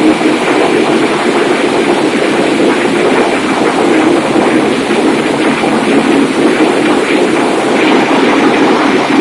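Loud, steady roar of a passenger ferry's engine-room machinery running, a dense constant din with a faint high whine over it.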